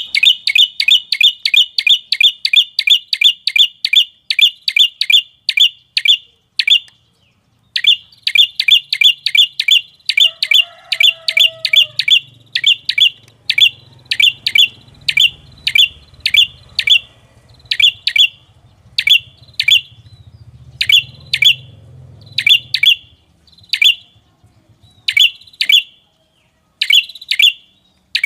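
Red-headed prenjak (tailorbird) call played as a bird lure: loud, sharp, repeated chirps sweeping downward, fast at about three or four a second, breaking off for about a second near the seventh second, then going on more widely spaced toward the end.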